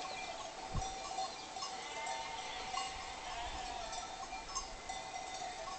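A flock of sheep bleating with their bells clinking, steady throughout, with faint high chirps above.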